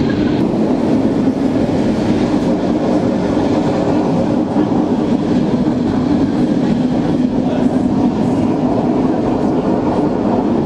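Swiss mountain railway train running along the track: a steady, continuous rumble with a low hum.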